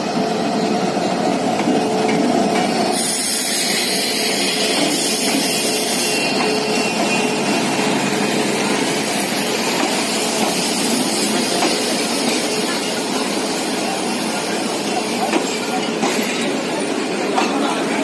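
Bangladesh Railway diesel locomotive passing close, then its passenger coaches rolling steadily past along the platform with a continuous rumble of wheels on rails.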